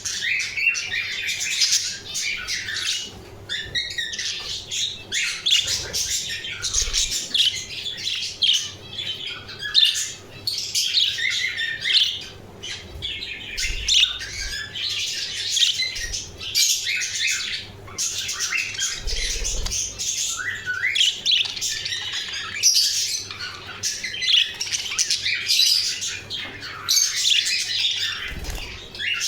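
Several budgerigars chattering and squawking continuously, many calls overlapping.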